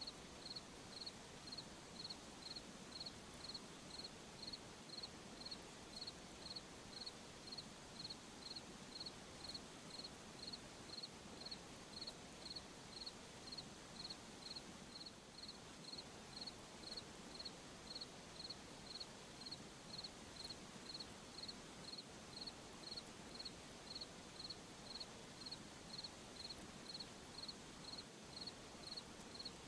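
Cricket chirping in a steady, even rhythm, about one and a half short high chirps a second, over a faint steady background hiss.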